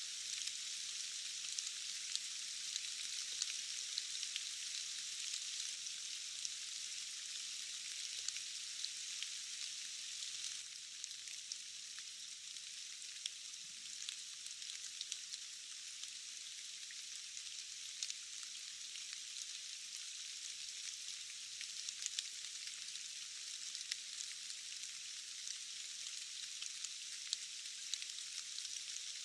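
Steady rain, a fine even hiss full of tiny drop ticks, thin and high with no low rumble; it eases slightly about a third of the way in.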